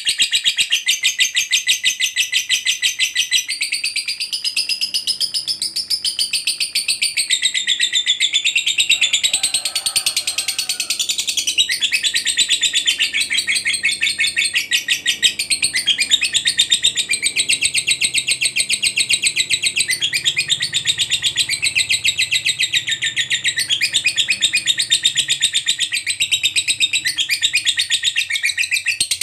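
Lovebird giving a long, unbroken ngekek chatter: a fast, high-pitched rattle of notes that runs on without a pause.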